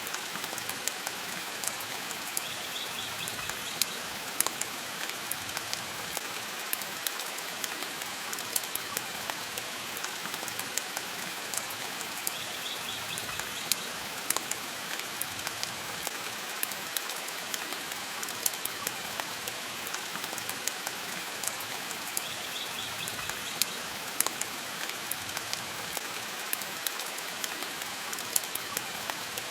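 Steady rain hiss mixed with a wood fire crackling in a fireplace, with frequent sharp pops scattered through it.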